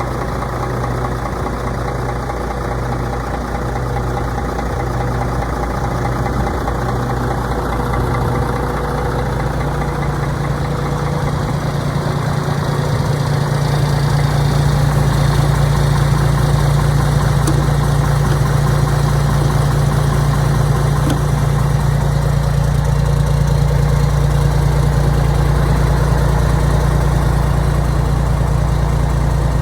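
Diesel engine of a 2007 Mack Granite dump truck idling steadily, getting somewhat louder about halfway through.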